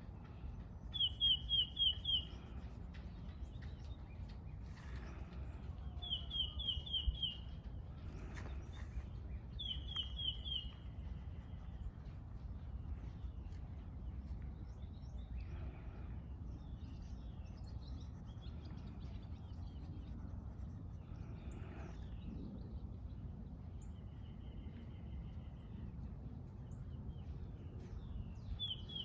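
A small songbird singing short trills of five or so quick, high, down-slurred notes, three times in the first ten seconds and faintly again later, over a steady low outdoor rumble.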